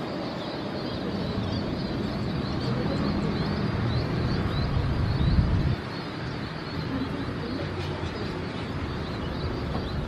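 Outdoor airport-side ambience: a low steady rumble that builds and then drops off abruptly about halfway through, with small birds chirping throughout.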